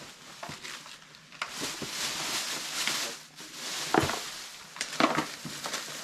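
Rustling and crinkling of plastic packaging as small items are handled and sorted, with a few sharp clicks or knocks about four and five seconds in.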